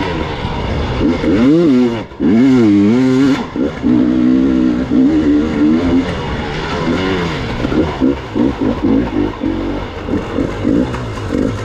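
Gas Gas EX 300 two-stroke dirt bike engine riding a trail, its pitch rising and falling as the throttle is opened and closed. It drops off briefly about two seconds in, then holds steady for a moment before quick blips of throttle.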